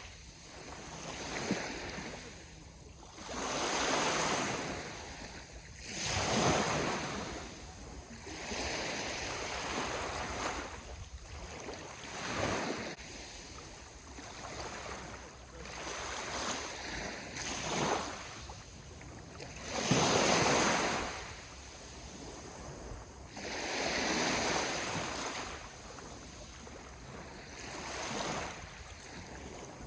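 Sea waves breaking and washing onto the shore, surging and falling back every few seconds, with the loudest surge about twenty seconds in.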